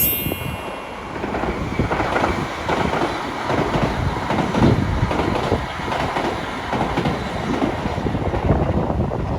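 Doctor Yellow, the 923-series shinkansen inspection train, rushing past at speed, a dense roar with rattling clatter, with strong wind buffeting the microphone. A brief high-pitched tone sounds right at the start.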